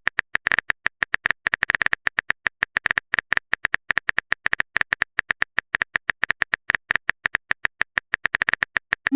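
Rapid phone-keyboard typing clicks, a texting sound effect, about eight to ten short clicks a second at an uneven pace.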